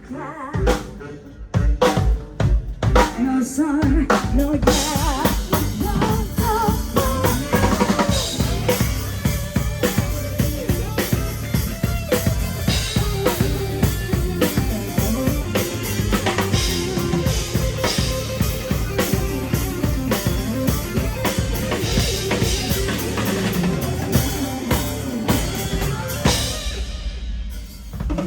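Live band playing through the stage PA during a sound check. The drum kit leads, kick and snare hitting a steady beat, and the other instruments come in about four seconds in. The playing drops away briefly near the end.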